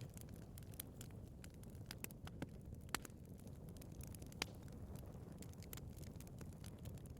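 Wood fire burning in a fireplace: a steady low rumble of the flames with frequent small crackles and pops, two sharper pops about three and four and a half seconds in.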